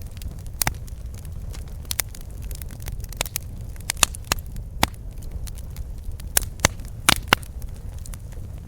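Campfire burning, with irregular sharp crackles and pops from the wood over a steady low rumble of the flames.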